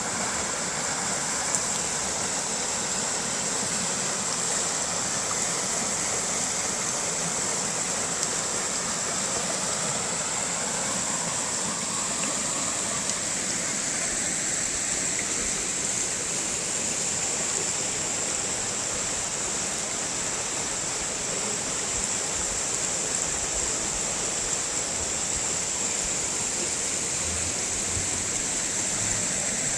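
Waterfall or cascading creek water rushing steadily, with a constant high-pitched hiss running through it.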